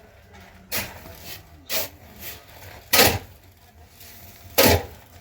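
Four separate sharp knocks or thumps at uneven intervals, the third and fourth the loudest.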